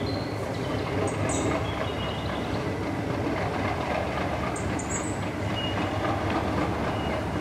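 Train running along the track, a steady rumble with a few short, high squeals of wheels on rail.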